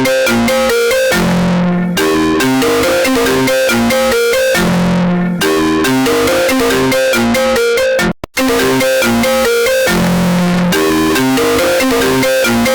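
Apple iPhone ringtone melody repeating in short looped phrases, pushed to an extremely loud, overdriven level, with a brief break about eight seconds in.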